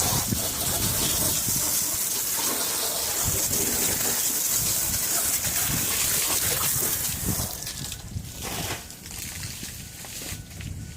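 Garden hose water spraying over an engine bay as degreaser is rinsed off: a steady gushing hiss of water on the engine, which eases off a little after seven seconds and turns patchy near the end.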